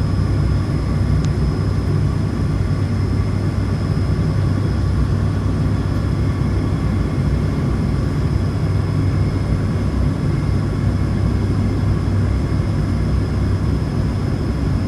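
Flight-deck noise of an ATR 72-600 turboprop during its landing: a steady, loud drone of the PW127M engines and propellers with a constant high whine over it.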